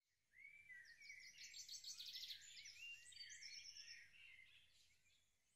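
Faint birdsong: several birds chirping with quick high trills and short rising and falling whistles, fading out about four seconds in.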